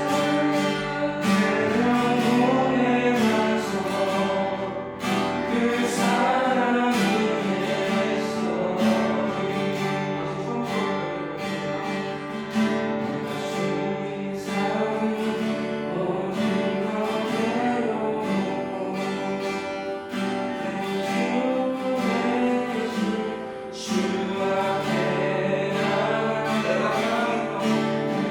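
Worship song with singing over strummed acoustic guitar.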